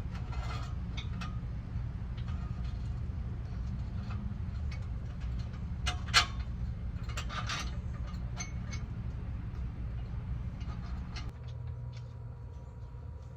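Scattered light clicks and ticks, like small mechanical tool work, over a steady low hum. There is one sharper click about six seconds in, and the hum stops near the end.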